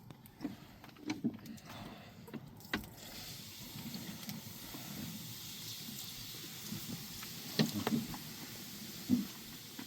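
Water poured onto a hot cooking stone, steadily sizzling and hissing from about three seconds in, with a few scattered knocks and clatters.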